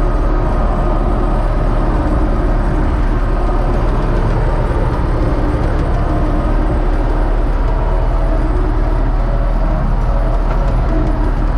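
U650 tractor's diesel engine running steadily, a constant low drone with no change in speed.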